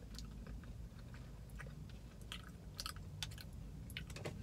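A person chewing a mouthful of baked beans close to the microphone, with short mouth clicks and smacks scattered through.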